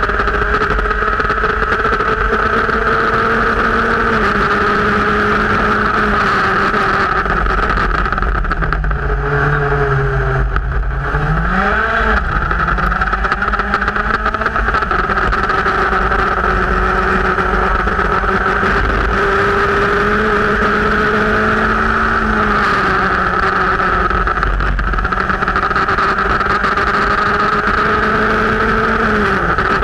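Onboard sound of a Formula Speed 2.0 race car's engine running hard at high revs, with wind noise. The engine note holds mostly steady, drops about 8 s in, climbs again about 12 s in, and falls again near the end as the car slows for corners.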